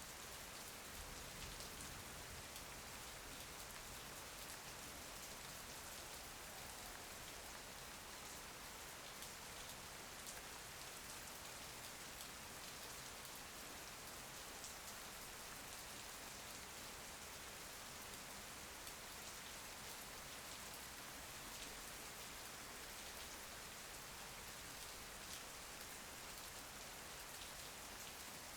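Steady, even rain with scattered faint ticks of single drops.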